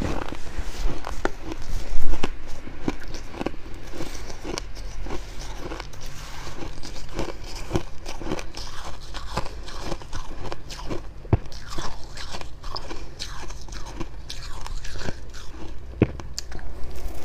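Close-miked biting and chewing of fluffy freezer frost: dense, irregular dry crunches and crackles, with a loud bite about two seconds in.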